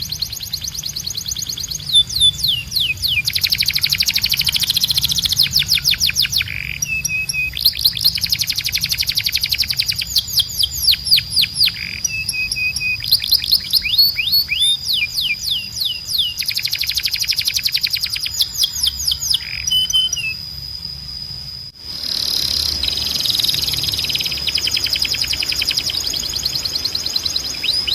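Canary singing: fast runs of repeated, downward-sweeping whistled notes, phrase after phrase with short trills between. About three-quarters of the way through the song cuts off abruptly and gives way to a denser, rolling warble.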